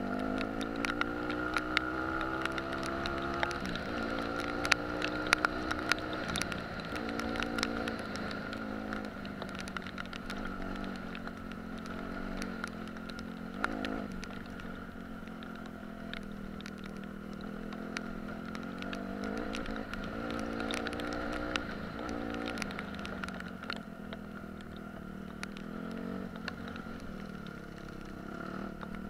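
Dirt bike engine revving up and down repeatedly as it is ridden along a trail, with many sharp clicks and knocks.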